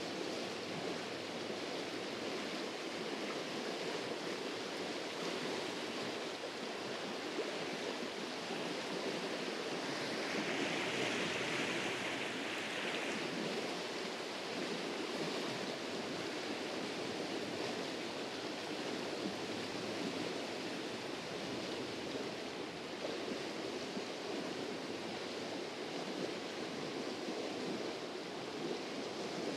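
Fast-flowing glacier-fed mountain stream rushing steadily, a constant water noise that swells briefly about ten seconds in.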